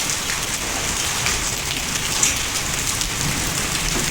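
Hailstones and rain falling on hard surfaces: a dense, steady patter of many small hits, with one louder strike a little past halfway.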